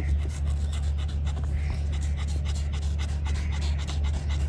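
A steady low machine hum with many irregular light clicks and taps over it.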